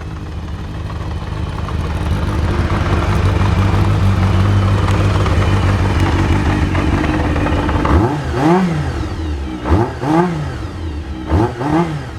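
Kawasaki Zephyr χ's air-cooled inline-four idling through a Yoshimura titanium exhaust, growing louder over the first few seconds. From about two-thirds of the way in it gives several short throttle blips, each revving up and falling back.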